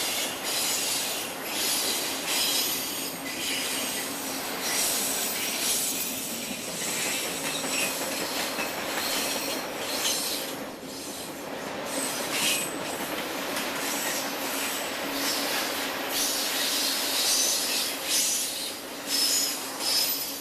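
A train rolling past, its wheels squealing on the rails in high-pitched streaks that come and go over continuous rail noise.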